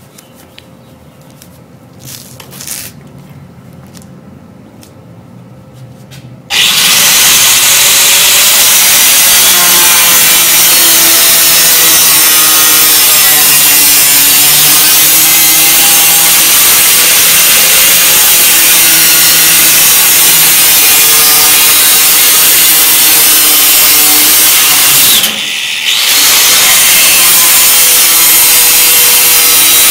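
Power tool cutting through automotive sheet metal, starting about six and a half seconds in and running loud and steady with a wavering pitch, stopping briefly about 25 seconds in before cutting on.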